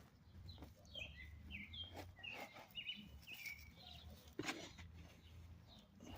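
Small birds chirping several short notes in the background, with a few soft knocks and rustles from soil and potatoes being dug through by hand, over a faint low hum.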